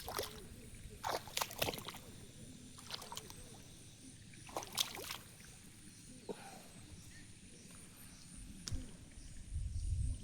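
Shallow water sloshing and splashing in short, irregular bursts, with a low rumble near the end.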